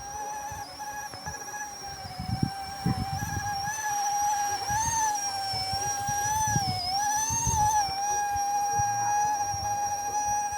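Small electric RC helicopter (Era EC135 C123) flying: a high, steady motor-and-rotor whine whose pitch wavers and dips in the middle as the helicopter is manoeuvred, over low buffeting noise.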